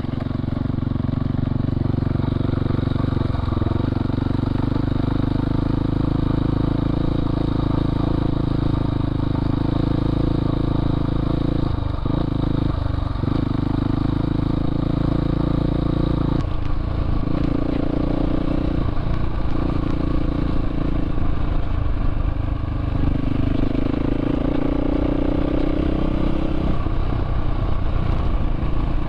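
Dirt bike engine running while riding, steady, with several brief drops in throttle and shifts in pitch through the middle and a rising note later on.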